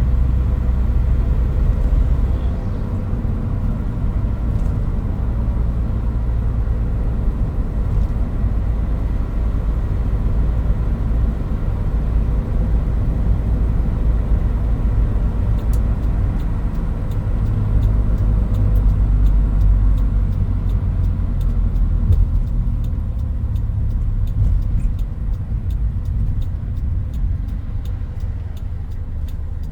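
Toyota Hilux Mighty-X pickup under way: a steady low engine and road rumble. From about halfway through, a regular ticking at about two a second joins it.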